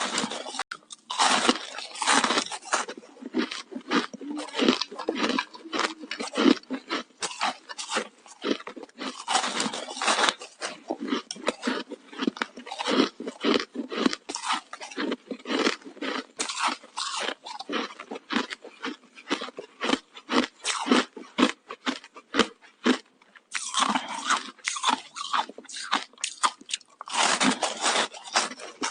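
Ice sticks being bitten and chewed close to the microphone: dense, irregular crunching and cracking of hard ice, with a couple of short lulls in the later part.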